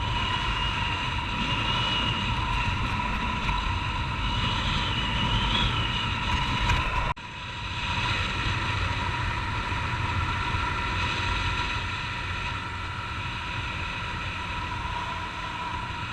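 Honda CG 150 Titan's single-cylinder four-stroke engine running steadily while riding, with wind rushing over a helmet-mounted camera. The sound cuts out sharply for an instant about seven seconds in, then carries on the same.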